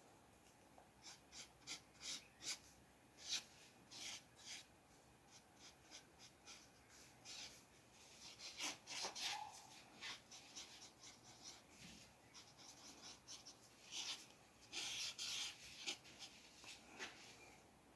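Drawing strokes scratching on paper: a run of short, faint strokes, with two longer, denser stretches of scratching, one about halfway through and one near the end.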